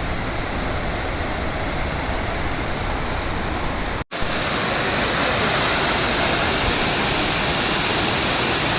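Waterfall pouring, a steady rush of water. About four seconds in it cuts out for an instant and comes back louder and brighter.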